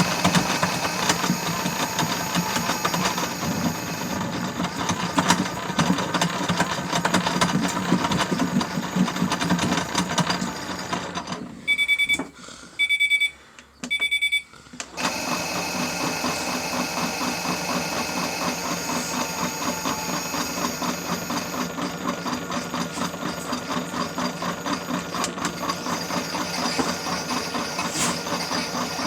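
Toy Miele W1 washing machine's small drum motor running with a light rattle. About twelve seconds in the motor stops and three short electronic beeps sound, then the motor starts again with an even, rhythmic churn.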